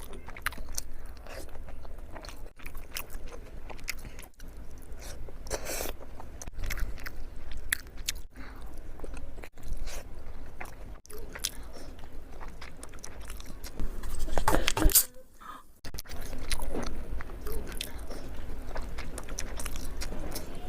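A person chewing and biting into spicy momos (dumplings), with many short wet mouth clicks, loudest a little past the middle, then a brief drop to near quiet.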